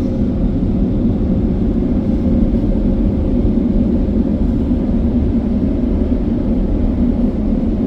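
Touchless car wash blower dryers running steadily during the drying cycle: a loud, even rush of air with a faint steady hum.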